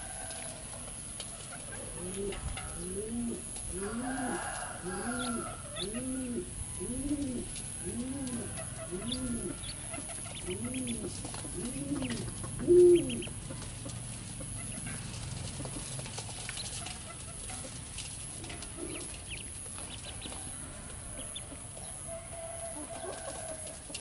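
A bird giving a low cooing call: one arched note that rises and falls, repeated about a dozen times at roughly one a second, the last note much louder, then it stops. Faint short high chirps sound now and then.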